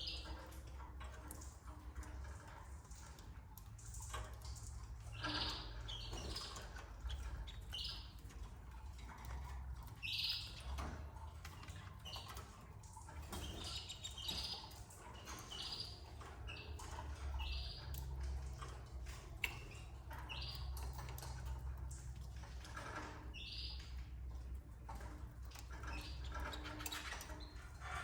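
Canaries giving short, separate high chirps every second or two, with scattered light clicks over a steady low hum.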